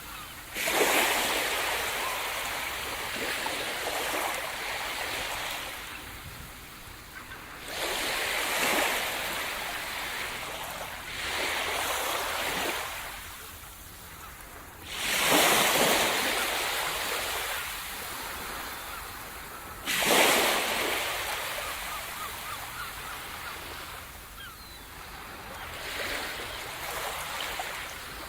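Sea surf: waves breaking on the shore about six times, every four to seven seconds, each a sudden rush of water that fades into a long hiss.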